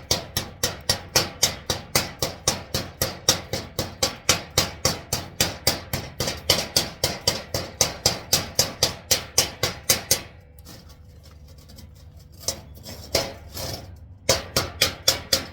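Chipping hammer rapping the stick welds on a steel welding plate, knocking off slag: sharp metallic strikes at about four a second for some ten seconds, then a pause, a few single strikes and a last quick burst near the end.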